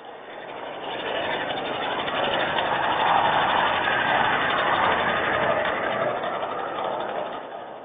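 A vehicle passing by on a wet road, its tyre hiss swelling over about three seconds, holding, then fading away near the end.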